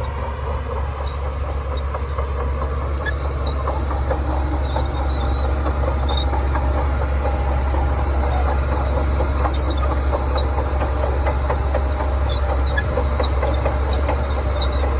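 Shantui DH17C2 crawler bulldozer working: its diesel engine runs steadily under a low drone, with a constant rattle of clanking steel tracks. The loudness builds slightly over the first few seconds.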